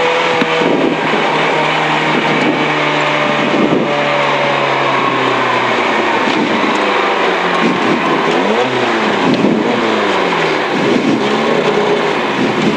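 Rally car engine heard from inside the cabin, running steadily at low speed after the stage finish, then rising and falling in revs several times about two-thirds of the way through as the driver works the throttle and gears.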